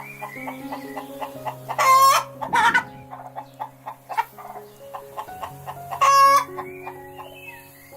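Chickens clucking, with two loud, harsh half-second squawks, one about two seconds in and one about six seconds in.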